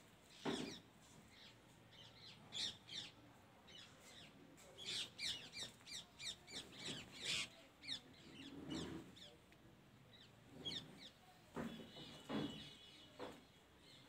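Small birds chirping repeatedly in quick, high, downward-sweeping notes, busiest in the first half, with a few dull knocks, the loudest about half a second in.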